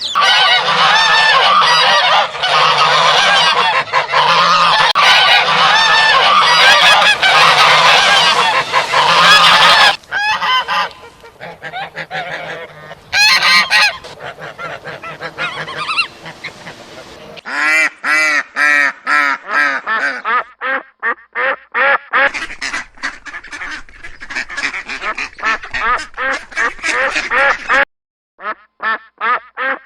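Geese honking: a dense flock chorus for the first ten seconds, thinning out, then runs of separate repeated honks from a few birds later on.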